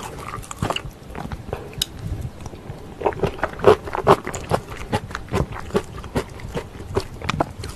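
Close-miked chewing of a mouthful of pork and kimchi stew: wet, smacking mouth sounds in quick, irregular clicks, busier from about three seconds in.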